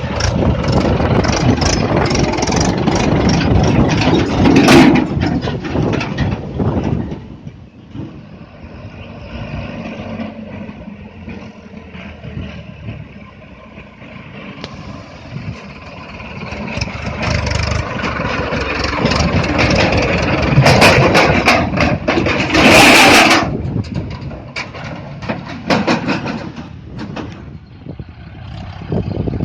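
Mahindra Arjun 555 DI tractor's four-cylinder diesel engine running while it hauls a fully loaded trolley. It is loud for the first several seconds, drops for a stretch in the middle, then builds up again, with one loud rushing burst a few seconds before the end.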